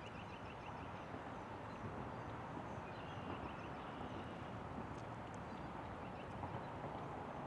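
Faint outdoor ambience: a steady rushing background with small birds chirping repeatedly.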